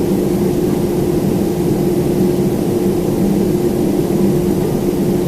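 Boeing 767-400ER's GE CF6-80C2 jet engines heard from inside the passenger cabin: a loud, steady drone with a low, even hum running through it.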